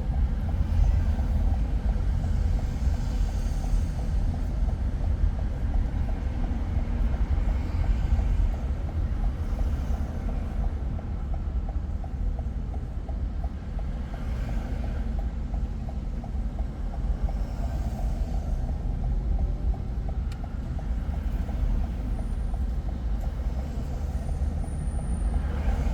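Steady low rumble of a car driving, with a soft hiss of tyres or passing traffic swelling up every few seconds.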